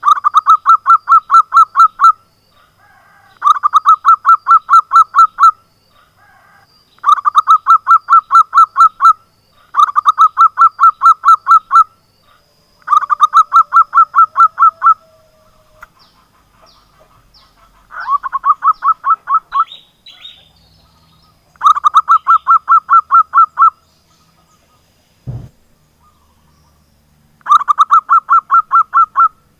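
Zebra dove (perkutut) calling in repeated runs of fast staccato notes, each run about two seconds long and eight runs in all. There is a short low thump a little before the last run.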